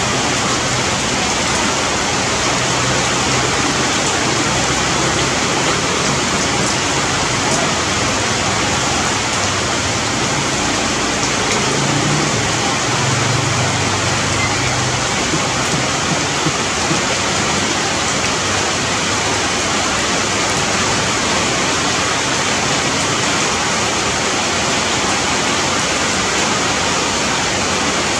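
Steady rain falling on leaves and tree branches, an even, unbroken hiss.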